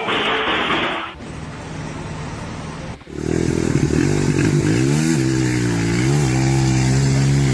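A motor vehicle or machine engine starts up loud about three seconds in and runs with a low, steady note. Its pitch dips and recovers several times as the load or throttle changes. Music plays briefly before it.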